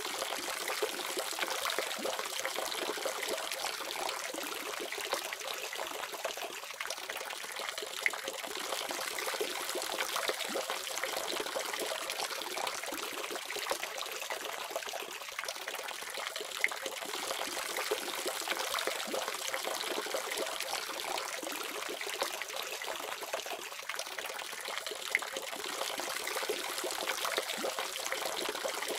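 Water running steadily from a faucet, a continuous splashing hiss with small droplet ticks.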